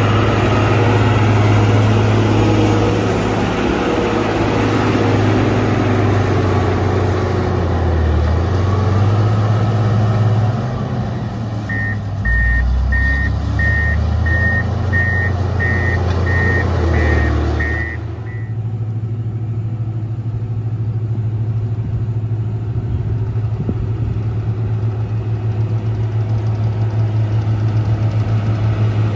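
Motor grader's diesel engine running steadily under a broad rushing, grinding noise. Its reversing alarm beeps about ten times at an even pace over some six seconds in the middle. Then the rushing noise cuts off and the engine runs on more quietly.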